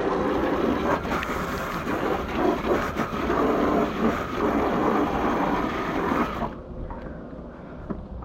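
Garden hose spraying water around the base of an air conditioner's outdoor unit, a steady hiss that cuts off about six and a half seconds in.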